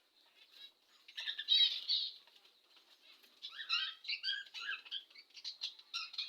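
Budgerigars chirping and chattering in quick warbling notes: a short burst about a second in, then a longer run of chatter from about halfway on.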